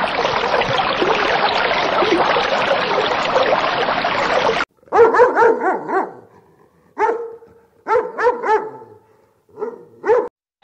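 Dense noisy din that cuts off abruptly a little before halfway, then a dog yipping: short high barks in small clusters, about nine in all, with brief silences between.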